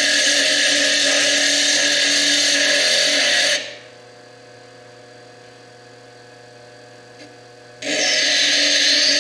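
Fire agate being ground against a small diamond slitting disc spinning on a Foredom bench lathe. The loud grinding stops about three and a half seconds in, leaving the lathe's motor running quietly, and starts again near the end as the stone is pressed back onto the disc.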